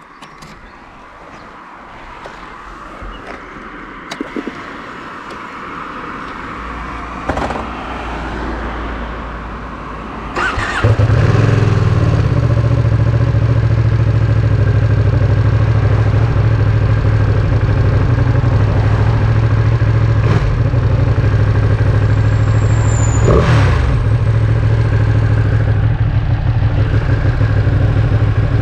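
Ducati Panigale V2's 955 cc Superquadro twin-cylinder engine being started: after some faint clicks, the starter turns it over about ten seconds in and it catches. It then settles into a loud, steady idle, with a brief change in pitch a little past the middle.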